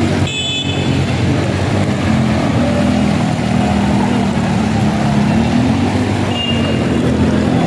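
Road traffic: vehicle engines running steadily, with a low hum throughout. Brief high-pitched tones sound just after the start and again about six seconds in.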